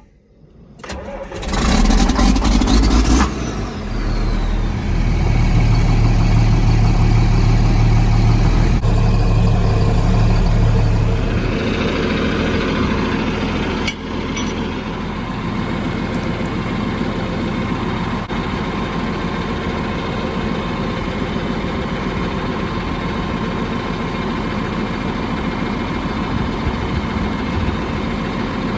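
Farm tractor engine starting, then running louder for about ten seconds before settling to a steady idle.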